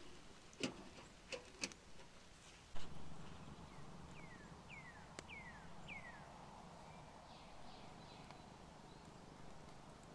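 A few sharp knocks in the first two seconds and a heavier thump near three seconds, then a bird calls four short, falling whistled notes about half a second apart.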